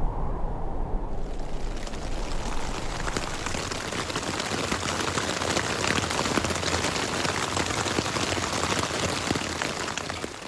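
Steady rain falling, a dense patter of many drops, setting in about a second in after a low rumble.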